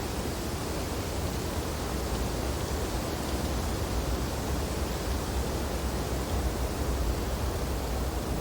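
Wind blowing steadily through snowy tree branches, an even rushing noise with a low rumble and no breaks.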